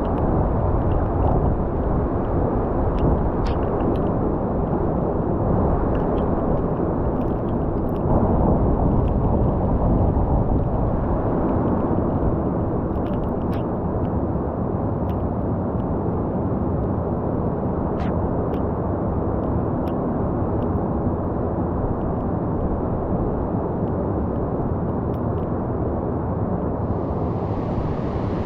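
Heavy storm surf: a steady roar of breaking waves, swelling a little about eight seconds in.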